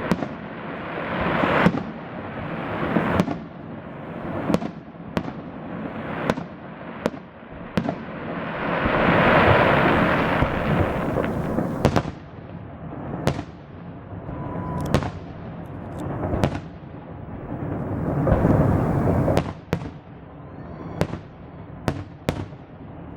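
Fireworks salute: shells bursting overhead in a run of sharp bangs at uneven spacing, some close together, with a swelling rush of crackling noise about a third of the way in and again near the end.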